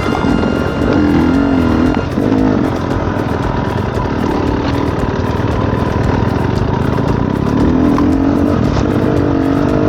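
Off-road dirt bike engine revving, its pitch wavering up and down as the throttle is worked.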